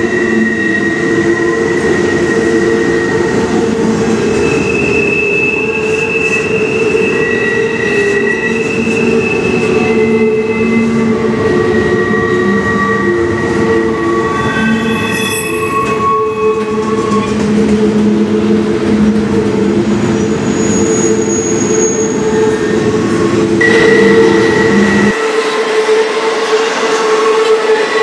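Double-stack intermodal freight train rolling past: a steady, loud rumble of the container well cars on the rails, with long squealing tones from the wheels that come and go at different pitches. The deep part of the rumble drops out abruptly near the end.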